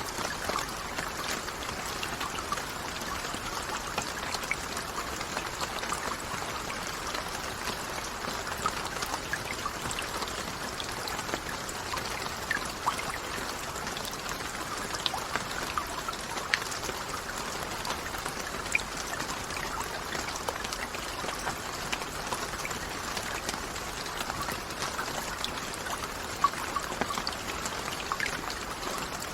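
Steady rain falling, an even hiss with many small, distinct drop ticks scattered through it.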